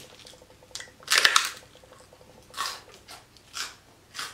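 Close-miked chewing of crunchy fried pork skin (chicharrón): one loud crackling crunch about a second in, then three shorter, softer crunches as the chewing goes on.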